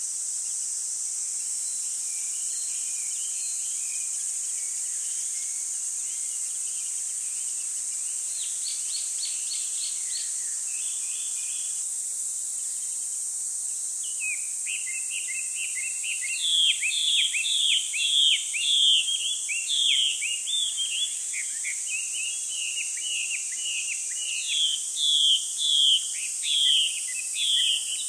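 Small birds chirping: a few faint calls and a short trill at first, then from about halfway rapid runs of quick, high, downward-sliding chirps in two long bouts, over a steady high hiss.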